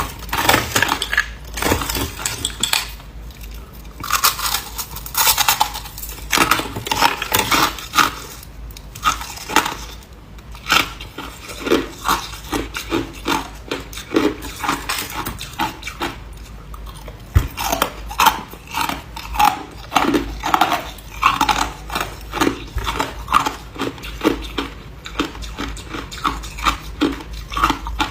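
A person biting and chewing ice, a dense run of sharp cracks and crunches that settles into steady chewing, about two to three crunches a second, in the second half.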